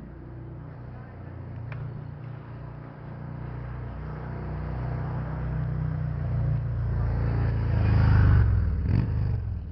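A motor vehicle, most likely a car, approaching and passing close by, its engine hum rising steadily to loudest about eight seconds in and then fading.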